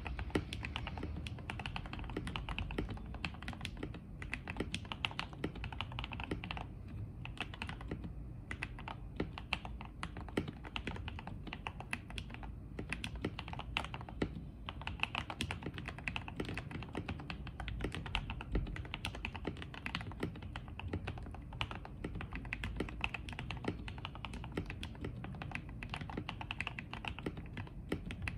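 Continuous typing on a mechanical keyboard: lubed Gateron Milky Yellow Pro linear switches with Akko ASA-profile keycaps in a fully foamed FK84T case. Keystrokes come in quick runs with short pauses between them.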